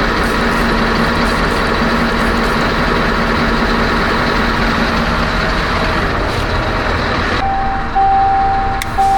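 Scania R560 truck's V8 diesel engine idling steadily. About seven and a half seconds in, the sound changes and a steady high electronic beep starts, broken by short gaps.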